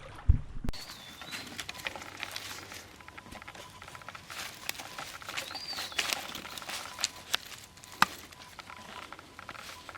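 Scattered pattering drips of rain, with a sharp tick about eight seconds in, and a bird giving two short rising-and-falling whistles, about a second in and again about halfway.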